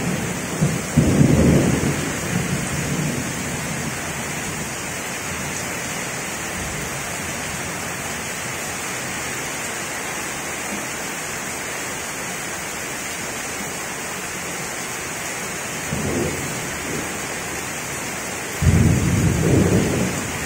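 Heavy rain falling steadily in a thunderstorm, with low rumbles about a second in, briefly again past the middle, and once more near the end.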